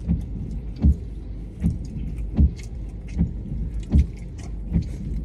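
Chewing a burger: soft, evenly paced thuds about one every three-quarters of a second, with faint wet clicks, over a steady low hum.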